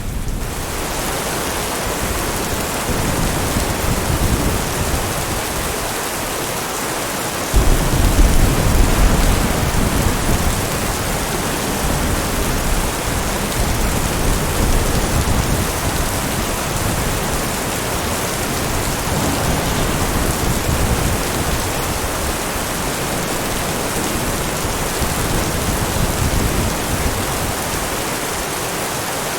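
Steady heavy rain, with a roll of thunder breaking in about a quarter of the way through and rumbling on for several seconds before easing.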